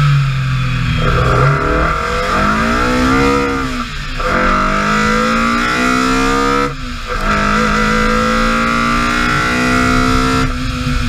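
BMW E30 M3's four-cylinder engine at full throttle through the gears, its pitch climbing and then dropping at each upshift, about 4 and 7 seconds in and again near the end.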